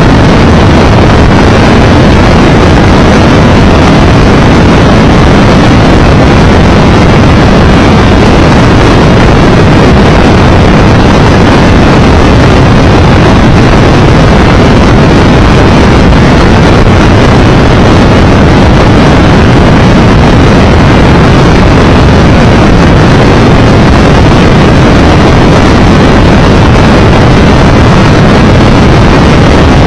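Triumph Tiger Explorer 1200 motorcycle riding at road speed: a steady, loud rush of wind on the microphone with the engine droning underneath.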